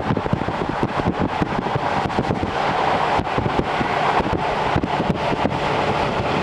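Series 711 electric train running at speed, heard inside the carriage through an open window: a steady rush of wheels on rail and air, with many small clicks and ticks scattered through it.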